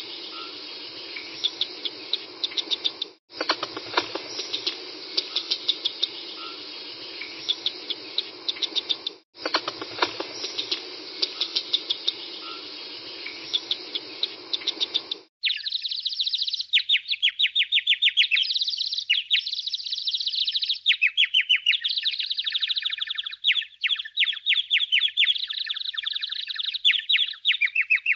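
A red squirrel sound: a steady hiss with quick irregular clicks, the same few seconds repeated three times. About halfway through it cuts off and a house sparrow's rapid, high chirping takes over.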